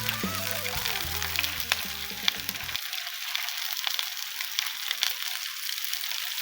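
Food frying: a steady sizzle with small crackling pops. Background song music plays under it and cuts off about three seconds in.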